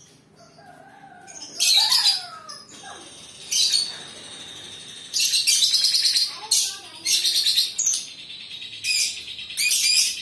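Lovebird chirping in repeated shrill bursts, with a thin high trill running between them.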